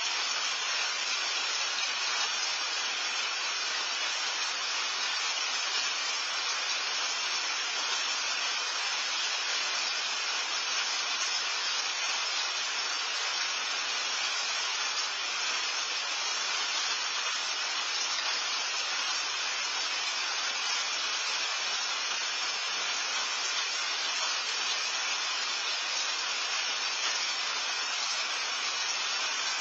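Steady rain falling, heard through a patio camera's microphone: an even hiss that holds constant with no breaks.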